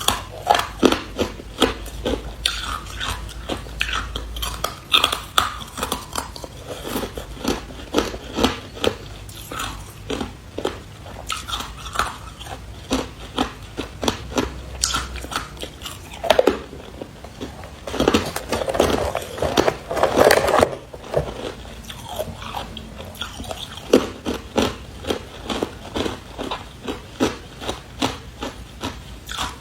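Carbonated ice being bitten and crunched between the teeth, close to the microphone: a run of sharp, irregular crunches several times a second, thickening into a denser stretch of crunching about two-thirds of the way through.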